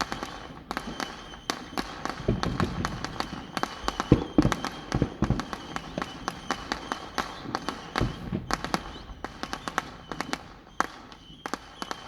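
Fireworks going off in a rapid, irregular crackle of sharp pops and bangs, with a few heavier thuds among them.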